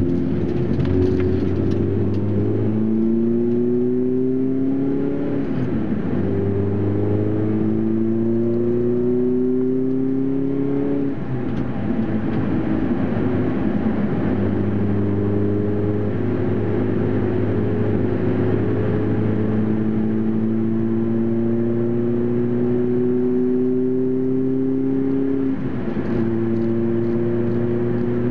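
The four-cylinder engine of a Toyota Celica ZZT230, a 1ZZ-FE converted to 2.0 litres, heard from inside the cabin under hard acceleration. Its pitch climbs and drops back at each upshift, three times in quick succession. It then eases off briefly, makes a long steady climb in revs, and upshifts again near the end.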